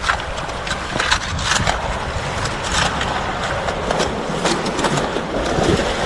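Wind buffeting the microphone on a rocky seashore, with a run of irregular sharp clicks and scrapes through it.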